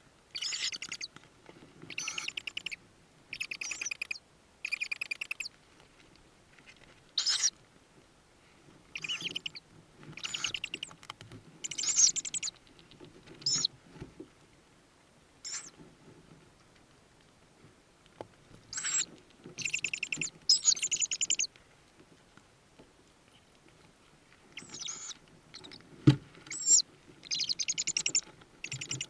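Tawny owl chicks in the nest box giving repeated short, rasping chittering calls, each burst under a second long, with pauses between. There is a sharp knock near the end.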